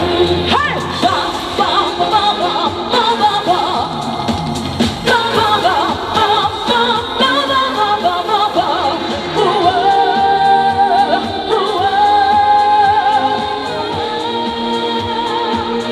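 Live band music with singing: an upbeat Korean pop song performed at a concert.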